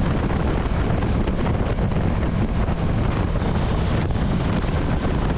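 Steady wind rush buffeting the microphone of a camera on a moving motorcycle, with road noise underneath.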